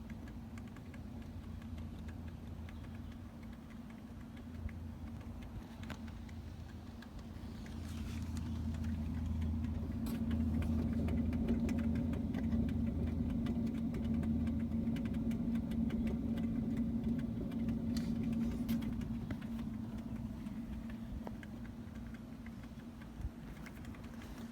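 Weird noise from the rear passenger side of a 2010 Toyota Prius: a steady hum that swells about eight seconds in and eases off after about twenty seconds, with faint light ticking through it. The owner feared it was the hybrid battery gurgling or rattling.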